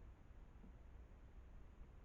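Near silence: faint steady background noise with a low rumble, and no distinct sounds.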